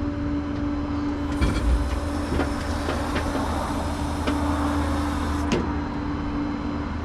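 Rollback tow truck's engine running with a steady hydraulic whine while the bed is worked, with a few light clicks and knocks from the bed and its load.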